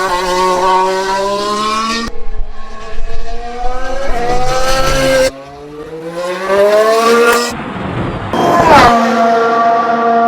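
Mercedes Formula One car's turbocharged V6 running at speed, its pitch sliding down and climbing again through the gears. The sound breaks off abruptly several times between shots, and a quick rise and fall in pitch comes near the end.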